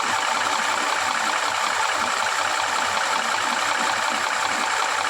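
Vehicle engine idling steadily, an even running noise with no change in level.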